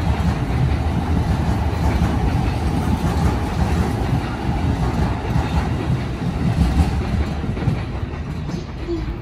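JR Keiyo Line E233-series electric commuter train running past along the platform, steady rumble with wheels clacking over rail joints, easing a little near the end.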